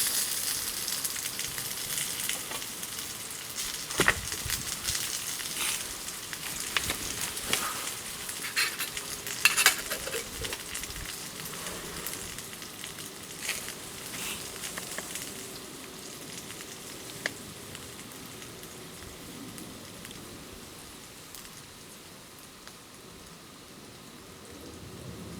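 Campfire crackling and sizzling: a steady hiss with scattered sharp pops, two louder ones about four and nine seconds in, slowly dying down.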